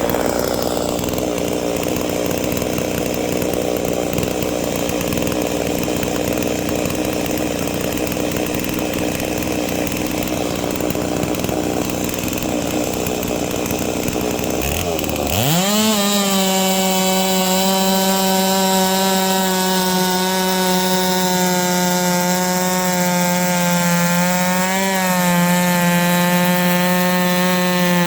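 A Holzfforma G660 98.5cc big-bore two-stroke chainsaw on a chainsaw mill runs at full throttle ripping a log, with a rough, gritty sound. About halfway through, the sound changes abruptly: the engine note sweeps quickly up and holds a clean, steady high whine.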